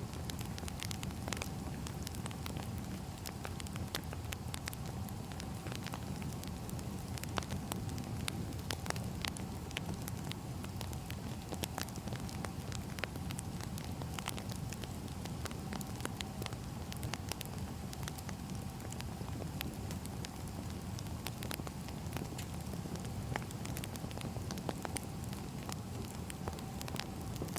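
Wood fire burning, with many irregular crackles and pops over a steady low rumble.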